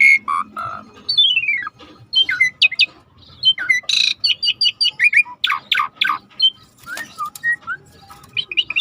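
Jalak suret starling singing a fast, varied song of short whistles, sliding notes that fall and rise, and harsh squawks, one after another without a break.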